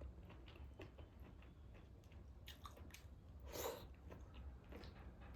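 Faint close-up eating sounds: a person chewing taro root and dried meat, with small wet mouth clicks and one louder wet mouth sound about three and a half seconds in.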